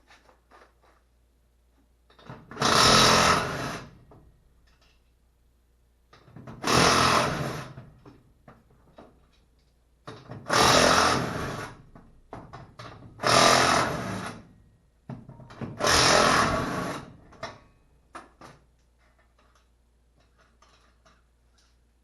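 A power tool runs in five short bursts of one to two seconds each, with small clicks and knocks in between.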